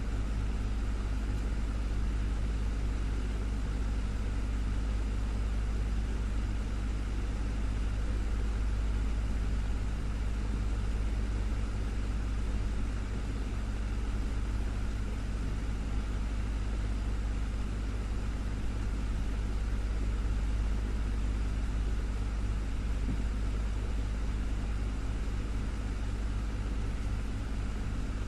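Desktop fan running steadily: a constant low hum with an even airy rush of blade noise over it.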